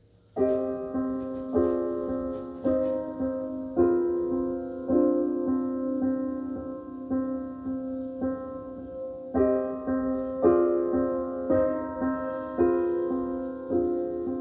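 Jazz piano playing a slow run of chords, struck about once a second, entering about half a second in after a near-silent pause; the music is heard played back over loudspeakers in a room.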